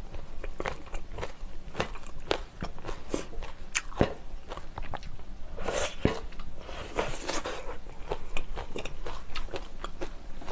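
Close-miked chewing and crunching of chopped fresh green chili peppers spooned up with spicy broth, with sharp clicks of a spoon against the bowl scattered throughout.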